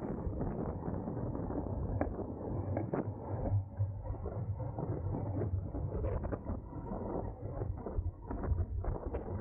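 Wind buffeting the microphone of a camera on a road bike at race speed, with a low rumble of road and tyre noise and frequent small clicks and rattles from the bike.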